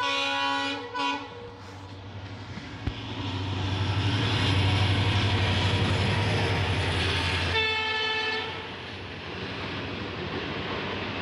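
Train horn sounding in short blasts over the first second or so, then a train passing close by with a loud rhythmic rattle of its coaches for about five seconds. A second horn blast comes about eight seconds in, over the running noise of the train the sound is heard from.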